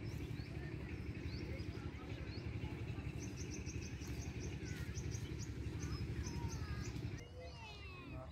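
Small birds chirping outdoors, with short rising calls and, in the middle, a quick run of high notes about four a second, over a steady low rumble that drops away near the end.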